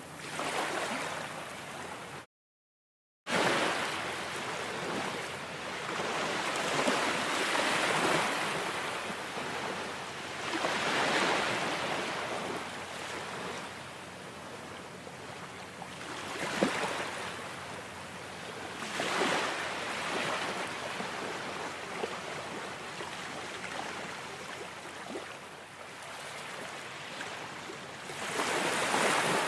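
Ocean surf, waves washing in and drawing back with swells every few seconds. About two seconds in the sound drops out to dead silence for about a second.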